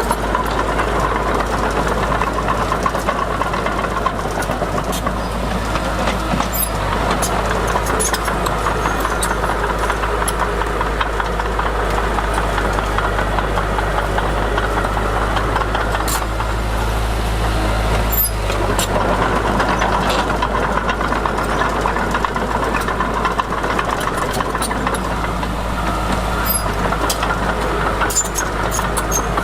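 Crawler bulldozer's diesel engine running steadily under work, with a few sharp clicks scattered through.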